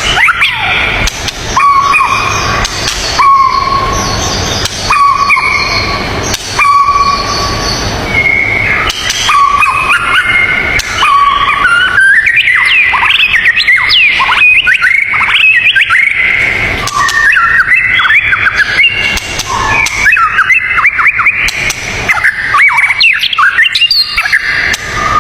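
Dense songbird chorus: quick whistled phrases and rising and falling notes from several birds. In the first third a short whistle repeats about every second and a half over a steady rushing hiss.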